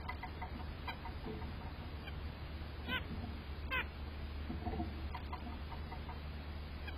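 White-breasted nuthatch calling: short nasal "yank" notes given in quick runs, with two louder, sharper notes about three and four seconds in. A steady low rumble runs underneath.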